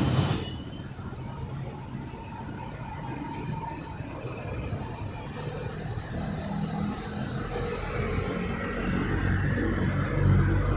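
Outdoor dockside noise with a motor vehicle's engine running, growing louder over the second half.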